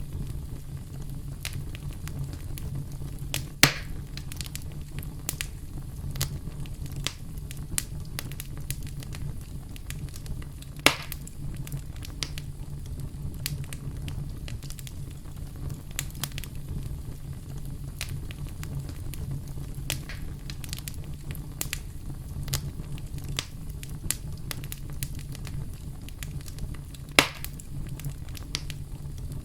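Campfire crackling: a steady low rumble of burning wood with frequent small snaps, and three much louder pops, a few seconds in, about eleven seconds in and near the end.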